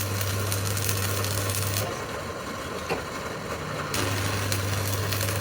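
Lathe turning a steel truck axle while a cutting tool scrapes the spinning metal, over a steady machine hum that drops away for about two seconds mid-way, with a sharp click near the middle.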